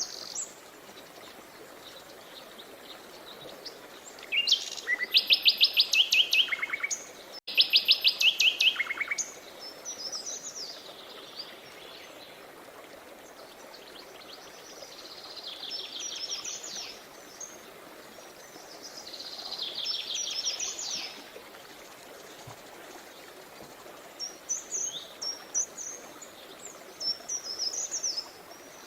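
Songbirds singing: loud phrases of fast trilled notes about four to nine seconds in, then further chirping and warbled phrases every few seconds. Underneath is the steady hiss of a running river.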